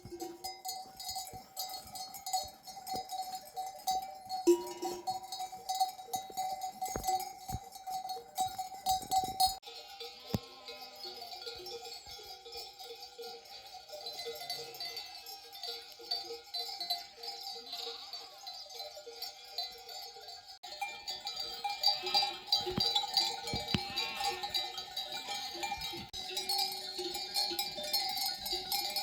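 Many sheep bells clanking and jingling as a flock moves, with occasional bleating from sheep and lambs. The bell mix changes abruptly twice.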